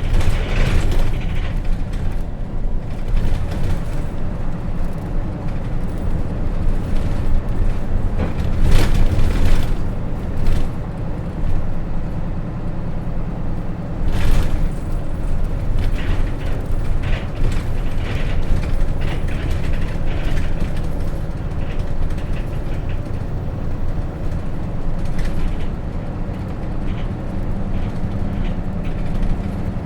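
Hino Rainbow RJ bus with a J08C diesel engine driving along, heard inside the cabin: a steady low engine and drive rumble with frequent rattles and creaks from the body, and a few louder knocks, one around the middle.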